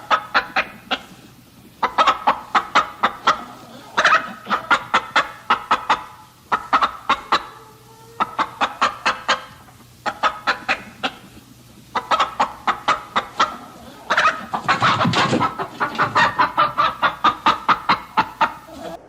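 Chickens clucking in fast runs of short notes, about five a second, in repeated bouts of a second or two. A louder, harsher call comes about three-quarters of the way through.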